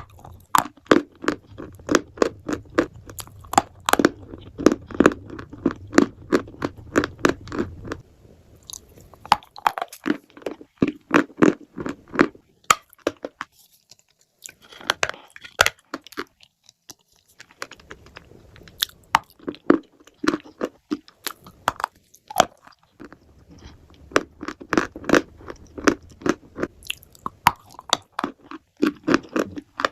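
Close-miked crunching and chewing of a hard, chalky material being bitten and ground between the teeth. The crisp crunches come several a second, in bouts broken by brief pauses.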